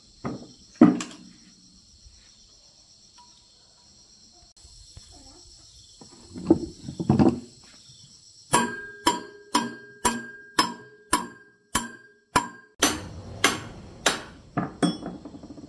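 Crickets chirring steadily, then from about halfway in a hammer striking metal repeatedly, about two ringing blows a second, followed by a few more irregular blows near the end.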